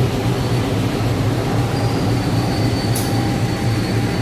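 Train running through the station: a steady loud rumble of rolling stock on the rails. A faint high wheel squeal joins in about two seconds in.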